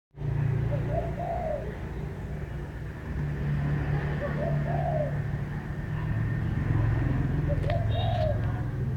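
A dove cooing three times, a short call roughly every three seconds, over a steady low hum.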